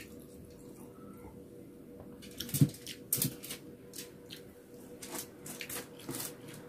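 Close-up eating sounds: a string of short, wet clicks and smacks of chewing and mouth noise, starting about two seconds in, over a faint steady hum.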